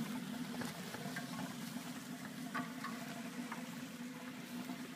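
Lada Niva engine running at low, steady revs as the 4x4 crawls over grassy ground, with scattered crackles and ticks over it.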